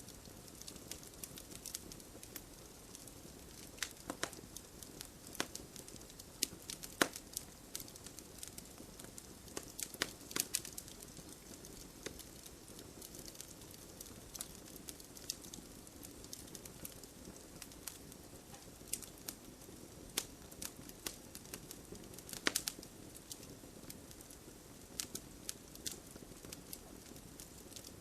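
Wood fire burning, with a steady low hiss of flames and irregular sharp crackles and pops. The loudest pops come about 7, 10 and 22 seconds in.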